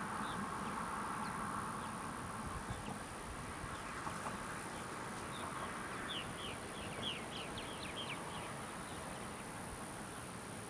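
Outdoor nature ambience: a steady high-pitched insect trill, with a bird giving a quick run of short falling chirps from about six to eight seconds in.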